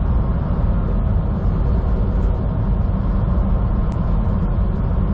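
Semi truck driving on the highway, heard inside the cab: a steady low drone of engine and road noise.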